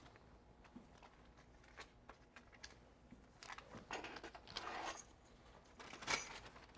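A set of keys jangling in short spells of rattling, loudest around the middle, with scattered light handling clicks.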